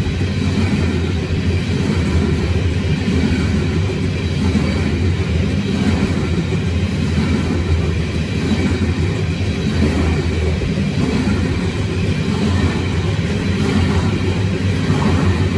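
Hopper wagons of a freight train rolling past at close range: a steady, loud rumble of steel wheels on the rails.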